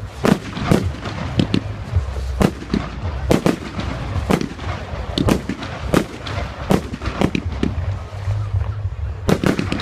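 Fireworks going off in quick succession: a run of sharp bangs and cracks, several to the second at times, over a low rumble.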